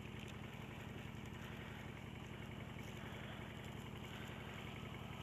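Motorcycle engine idling steadily and faintly, a low even hum.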